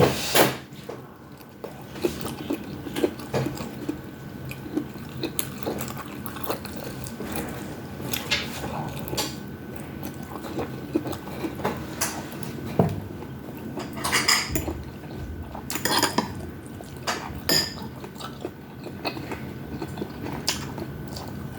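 Utensils clinking and tapping against a bowl during a meal, in irregular clicks, with a few louder clinks about two-thirds of the way through.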